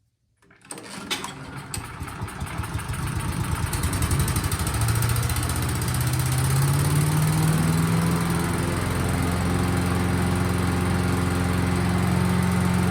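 Cub Cadet CS 2210 chipper shredder engine starting and coming up to speed, its pitch rising over a few seconds, then running steadily. It runs now that the water has been flushed from its fuel system and the carburetor cleaned.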